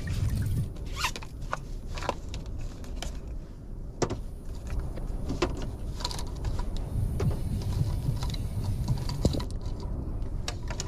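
Strong wind rumbling on the microphone, with scattered light clicks and taps throughout.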